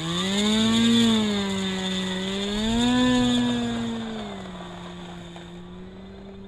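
Electric motor and propeller of an E-flite Carbon-Z Cessna 150 RC plane spooling up from rest with a rising whine, surging twice, then settling to a steady lower speed as the throttle is held for taxiing.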